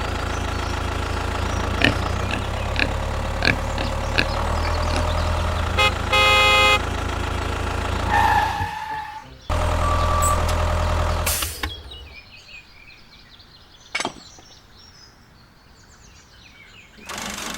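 Mini tractor engine running steadily, with a short horn honk about six seconds in. The engine sound drops away a little before twelve seconds, leaving a quieter stretch with a single sharp knock near fourteen seconds.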